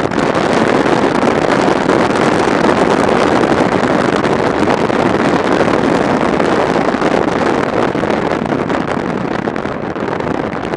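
Loud, steady rush of wind over the microphone of a camera on a moving motorcycle, mixed with engine and road noise, easing slightly near the end.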